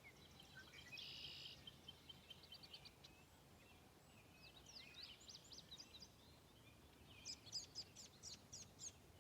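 Faint birdsong: scattered high chirps and short trills, with a buzzy trill about a second in and a run of about six quick high notes near the end, over quiet outdoor background.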